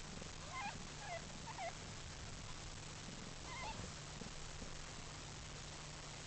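Newborn kittens mewing: four short, thin, squeaky mews in the first four seconds, over a low steady hum.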